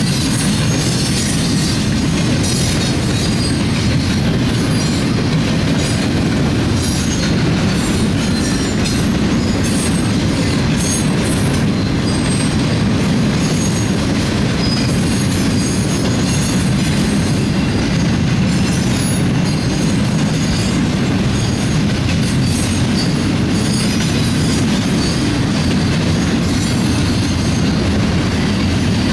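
Double-stack intermodal train of loaded well cars rolling past: a steady, loud rumble of steel wheels on rail, with high-pitched wheel squeal coming and going.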